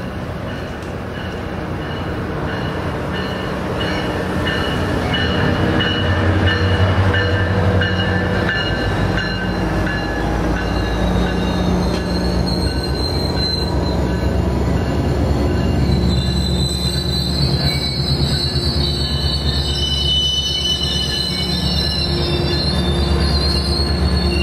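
Diesel-hauled Metrolink commuter train approaching and passing close by, a growing rumble of the bilevel cars on the rails that reaches full loudness after about six seconds. High-pitched wheel squeal comes in about halfway through and carries on as the cars roll past.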